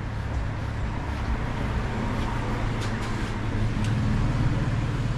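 Street traffic with a motor vehicle's engine running close by, its low hum growing louder about four seconds in, and a couple of short sharp ticks near the middle.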